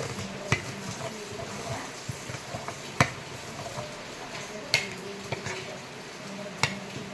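Close-up eating sounds of someone chewing pork offal (intestines and tripe), with four sharp clicks spaced about two seconds apart and small ticks between them.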